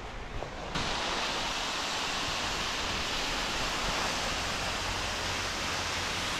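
Waterfall rushing steadily, a dense even roar of falling water that steps up abruptly less than a second in, then holds level.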